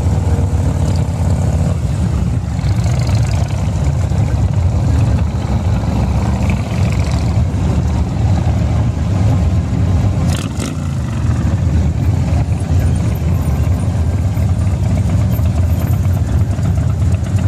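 A convoy of motorcycles riding past one after another, many engines running together in a steady, loud, low drone, with a brief sharp click about ten seconds in.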